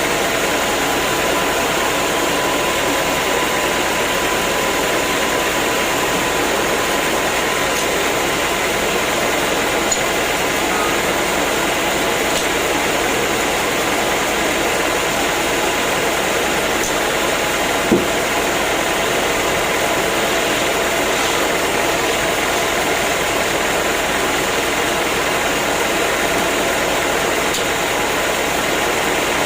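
Sawmill machinery running with a steady, even noise, and one sharp knock about 18 seconds in.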